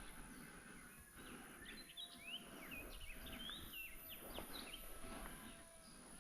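Birds chirping faintly outdoors: a quick run of short chirps that slide up and down in pitch in the middle, over quiet background noise.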